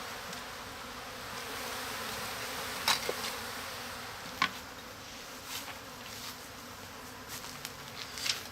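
Mass of honeybees buzzing steadily around a wild colony opened up for removal. Two sharp knocks, about three and four and a half seconds in, stand out over the buzz.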